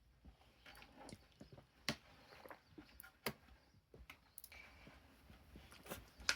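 Faint, scattered clicks and knocks from plastic toy trucks being moved and bumped about, with a few sharper taps among them.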